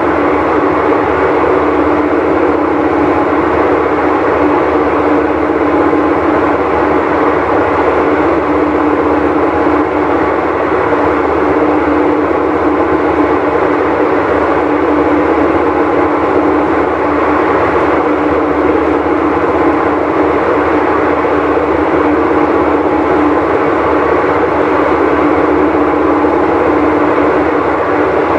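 Whirlpool Cabrio top-load washing machine running loud and steady with a heavy rumble and a constant hum, the noise of its bad bearing.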